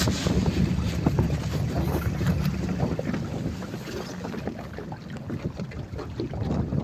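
Wind buffeting the microphone: a steady low rumble with crackling gusts, easing a little towards the end.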